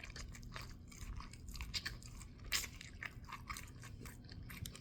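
Mouth chewing a crunchy deep-fried chicken sandwich close to the microphone: irregular crunches and wet chewing clicks, the loudest crunch about two and a half seconds in.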